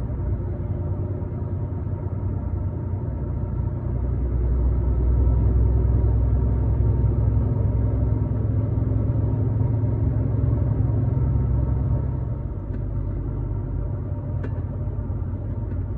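Truck driving on the road: a steady low engine and road drone, swelling louder for several seconds in the middle, with a couple of faint clicks near the end.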